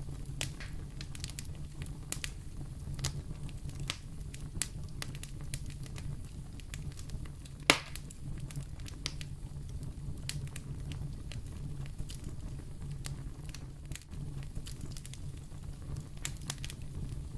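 Wood fire burning in a fireplace: a steady low rumble of the flames with frequent irregular crackles, and one sharp, louder pop about halfway through.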